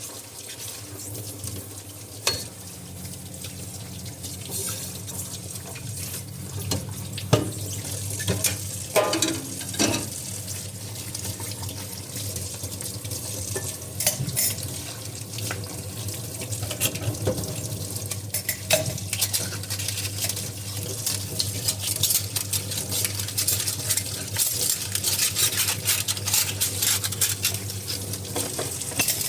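Dishes being washed under a running tap in a sink: water splashing, with knocks and clinks of dishes and a short squeak about nine seconds in. The splashing and clinking grow busier in the second half.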